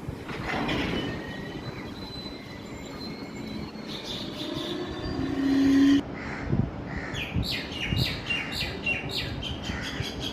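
Train sounds at a railway platform. Just past halfway a brief loud steady tone cuts off abruptly, then birds chirp rapidly and repeatedly.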